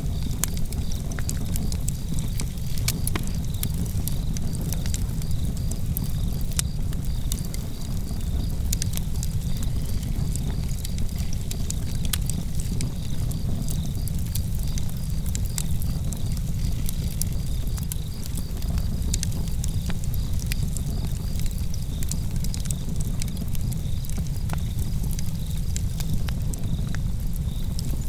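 Outdoor campfire crackling, with frequent sharp pops and snaps of burning wood over a steady low rumble, while crickets chirp in an even, high-pitched pulsing trill.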